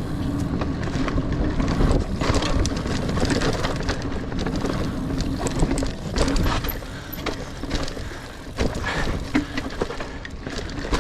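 Mountain bike (29er) rolling fast over rough, rooty singletrack: constant tyre rumble with frequent rattles and knocks from the bike going over roots and rocks, easing a little after about six seconds.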